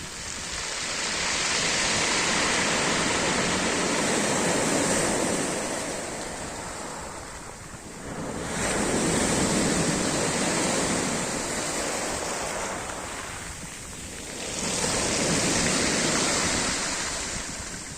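Sea surf breaking on the shore: three waves in turn swell into a loud rushing wash and die away.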